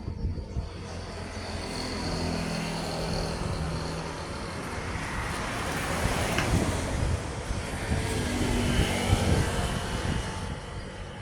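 Road vehicles passing on a highway: engine and tyre noise builds, is loudest in the second half, then eases off near the end.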